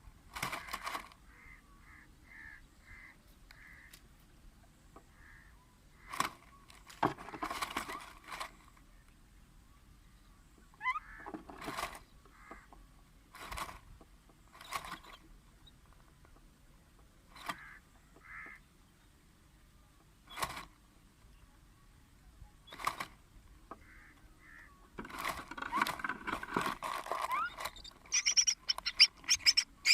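Myna calling at a nest box: scattered short, harsh calls a few seconds apart. Near the end comes a quick run of high-pitched calls, typical of a chick begging at feeding.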